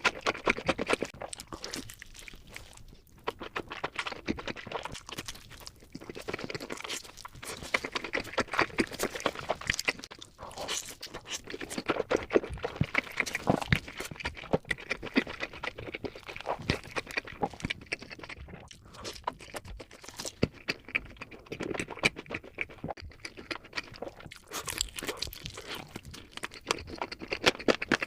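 Close-miked eating: crunchy bites and wet chewing of pizza, with a steady run of irregular crackly crunches.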